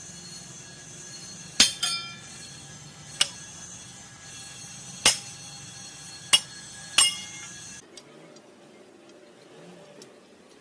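Hammer blows on metal: six sharp, ringing strikes at irregular intervals over a steady background hum, which drops away about eight seconds in.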